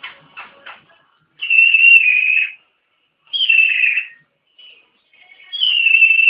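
African grey parrot whistling three times, each whistle held about a second and sliding slightly down in pitch.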